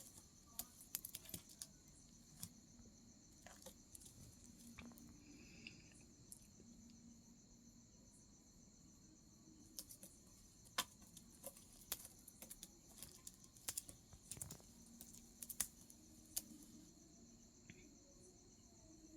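Faint, steady high-pitched chirring of crickets, with scattered sharp clicks.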